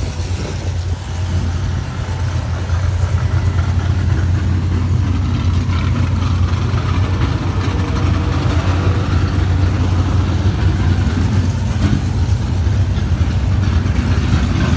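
A car engine idling with a steady, low, pulsing rumble that grows a little louder about two to three seconds in.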